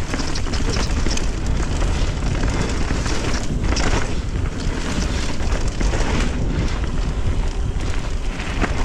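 Steady wind buffeting the microphone of a mountain biker riding a trail, loud and even throughout.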